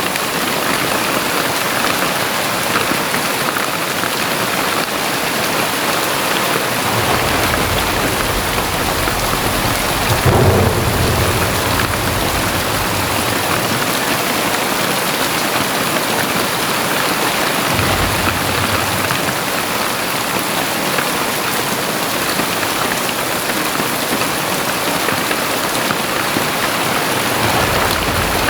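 Very heavy rain pouring steadily, with deep low rumbles that swell up about a quarter of the way in, peak around a third of the way through, and return briefly later and near the end.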